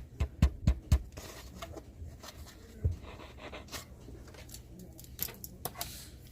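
10-inch M110-4 woofer from a JBL PRX710 giving a run of sharp clicks with low thumps, about four a second for the first second, then a few scattered clicks. This is the noise of its swollen voice coil rubbing.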